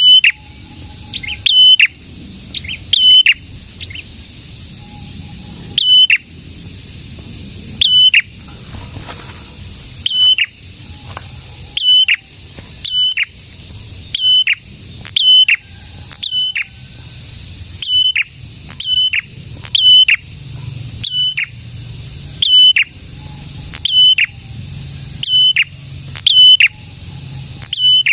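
Prenjak songbird calling steadily, repeating a sharp high call note every second or two, often as a quick pair, each note dropping steeply in pitch. A low rumble runs underneath.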